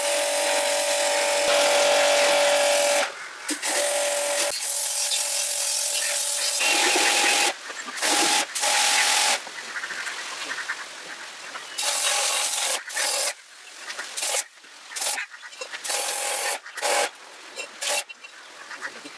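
Electric pressure washer cleaning carbon sludge out of a diesel intake manifold: a steady motor whine under a loud spray hiss for about three seconds. After that the spray starts and stops over and over, in bursts that grow shorter near the end.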